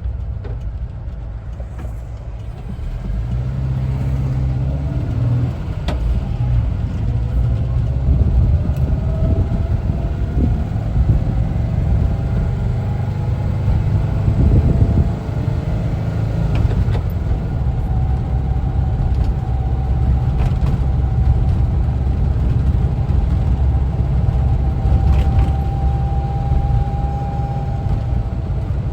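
Air-cooled Type 4 flat-four engine of a 1974 Volkswagen Westfalia camper running while the bus is driven, a deep rumble mixed with road noise. It builds up a few seconds in and drops briefly partway through before picking up again.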